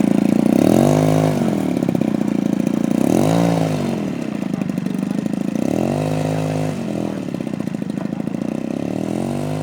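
Zenoah GT80 twin-cylinder two-stroke gas engine of a large RC model warbird running on the ground. Its pitch swells up and falls back about every three seconds.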